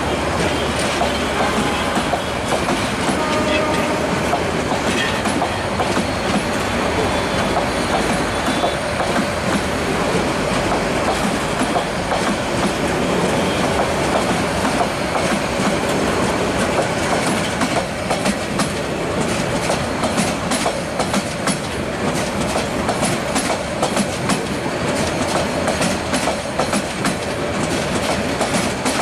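A Bangladesh Railway intercity passenger train's coaches rolling past at close range: a steady rumble of wheels on rails with clickety-clack over the rail joints. Sharp clicks grow more frequent in the second half.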